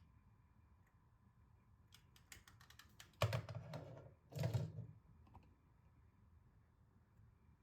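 A quick run of light clicks, then two louder, longer handling sounds about a second apart, like objects being set down or moved.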